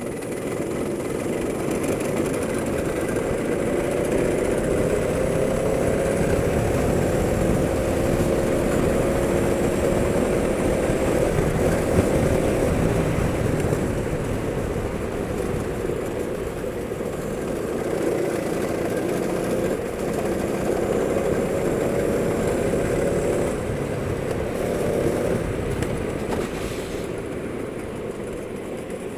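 Go-kart engine running under load, its pitch climbing slowly, easing off, then climbing again and dropping near the end, as the kart speeds up and slows for corners, with rushing noise under it.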